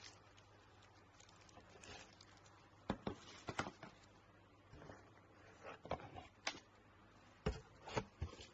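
Faint handling noises: scattered light clicks and taps, about a dozen, with a few sharper ones around the middle and near the end.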